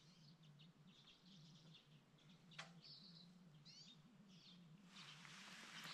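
Near silence, with faint small-bird chirps: a few short high calls and one quick trill scattered through the quiet.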